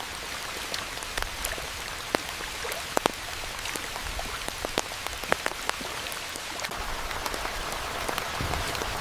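Steady rain hiss with individual drops hitting a surface close by, sharp taps at irregular moments.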